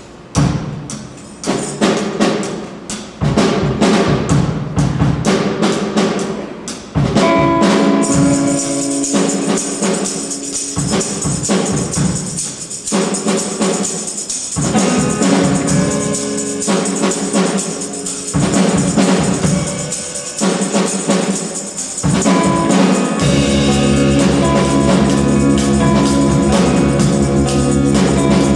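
Live acoustic band playing a new song: it opens with sharp, spaced percussive hits, a steady high shimmer joins about eight seconds in, and a deep bass line comes in near the end.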